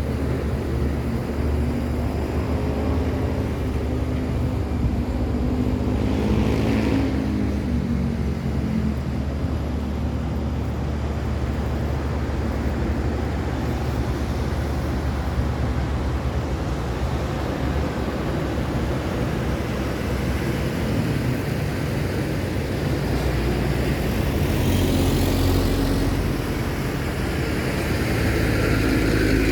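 Continuous road traffic: the engines and tyres of passing cars, trucks and motorcycles make a steady low rumble, with a vehicle going by close about seven seconds in and more heavy vehicles passing near the end.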